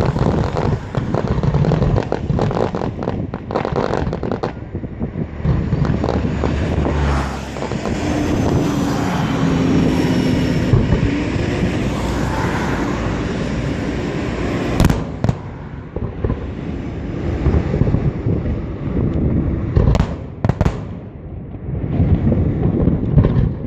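Aerial fireworks bursting in quick, crackling succession, with several sharp, loud bangs about fifteen and twenty seconds in.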